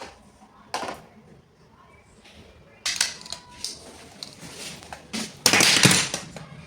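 A few sharp clicks and knocks, then a louder clattering, rustling noise lasting under a second about five and a half seconds in.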